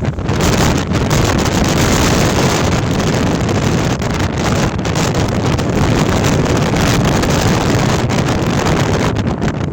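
Storm-force gale wind blasting against the microphone: a loud, continuous rushing roar, heaviest in the low end, with only brief dips near the start and end.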